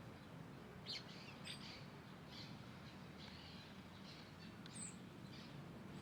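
Small birds chirping faintly: short, high scattered calls, several in a row, over a steady low background hum.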